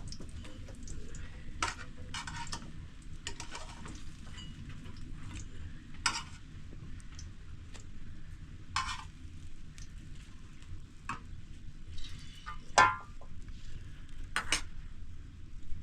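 Scattered scrapes and clinks of kitchenware: a utensil stirring and knocking in a pot, over a steady sizzling hiss.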